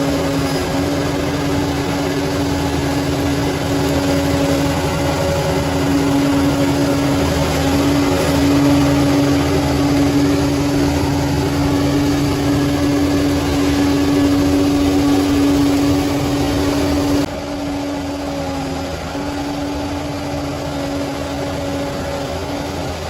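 Bulldozer's diesel engine running steadily, a constant droning hum that drops suddenly in loudness about seventeen seconds in.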